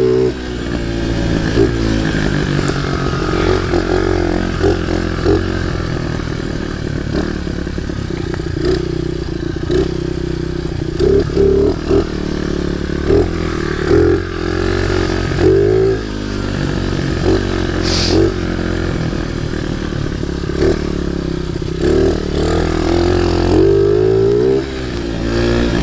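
Baja pit bike's small engine running while being ridden, its pitch rising and falling with the throttle, with frequent clattering knocks throughout. A brief high-pitched sound stands out about two-thirds of the way through.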